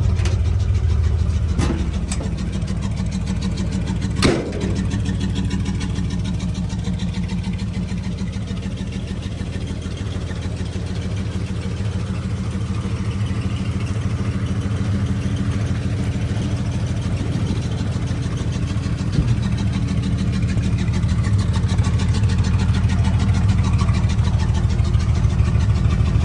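A 1953 Chevrolet pickup's original inline six-cylinder engine idling steadily just after a cold start, with a sharp click about four seconds in.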